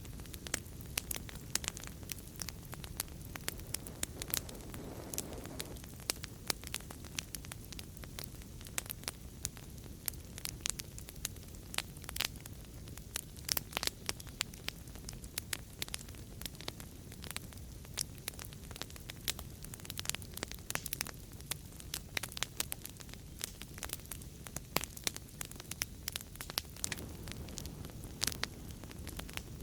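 Wood fire crackling in a fireplace: many sharp, irregular pops and snaps over a steady low rumble of flames.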